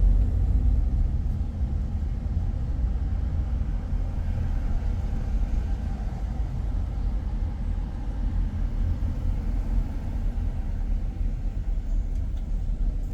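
Steady low rumble of a car driving, engine and road noise without a break.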